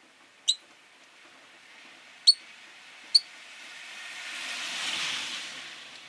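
Rosy-faced lovebirds giving three short, sharp high chirps in the first few seconds, the middle one loudest. A vehicle passing in the street swells and fades about four to six seconds in.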